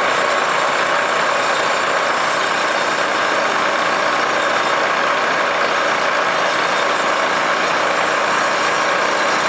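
Milling machine running steadily, its end mill machining the built-up weld down flush with the engine case's gasket surface.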